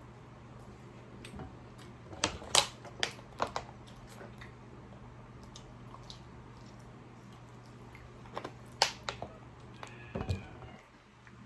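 A person eating: chewing, with sharp clicks and smacks in two clusters, about two seconds in and again near nine seconds, over a low steady hum.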